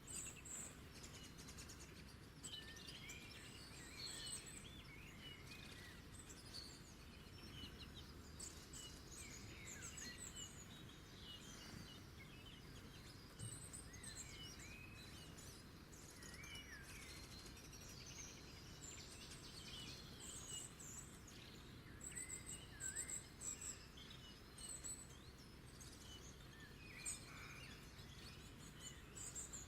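Faint wild songbirds singing and chirping: many short high notes and quick falling whistles from several birds, busiest in the last third, over a soft steady low background hiss.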